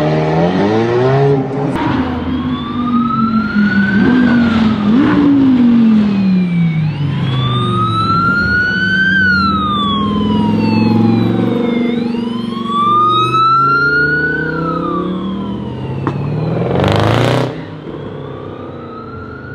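Sports car engines revving and accelerating, with a siren wailing up and down over them several times. A brief loud burst comes near the end.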